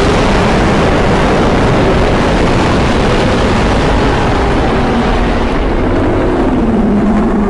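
Custom-made monster roar sound effect: a loud, sustained rushing roar with a low drone under it that sinks slightly in pitch near the end, then begins to fade.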